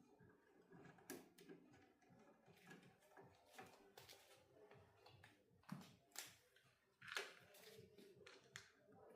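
Faint, irregular clicks and taps of small tools and parts being handled, with a few sharper clicks about four, six and seven seconds in.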